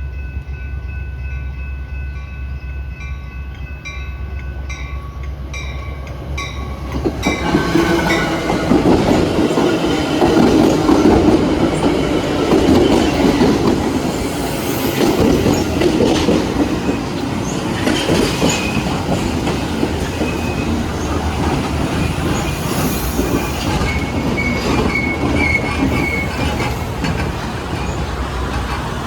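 BNSF commuter train arriving at the station: a low rumble at first, then about seven seconds in the cars draw level and loud wheel-on-rail noise takes over, with clacking over rail joints and a brief high wheel squeal near the end.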